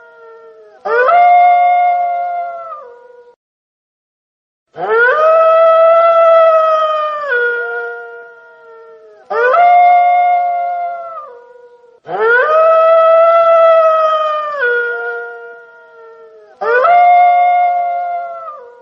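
Wolf howling: five long howls in a row, each rising quickly at the start, held steady for a couple of seconds, then falling away in steps before a short pause.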